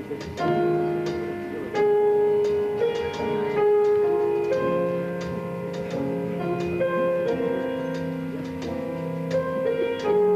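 Instrumental music from a small trio: a melody of held notes that change about every second, over a regular pulse of light strikes.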